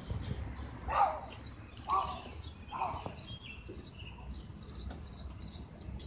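Birds calling: small birds chirping repeatedly and high, with three louder, lower calls about a second apart in the first half.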